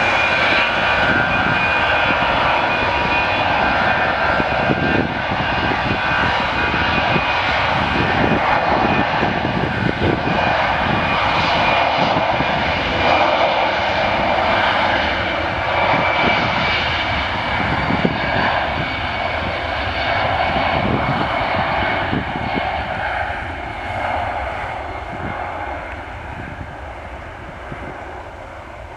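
Airbus A320 jet engines at takeoff thrust: a loud, steady rush of jet noise with a high whine running through it. It fades gradually over the last several seconds as the airliner moves away.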